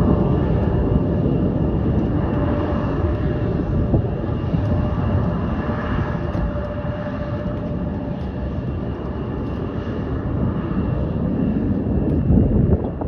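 Jet aircraft engines running loud, a dense noise with a steady whine in it, easing off slowly and swelling briefly near the end.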